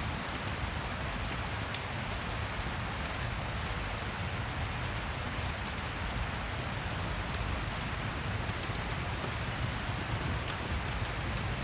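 Steady rain, an even hiss, with scattered faint sharp ticks.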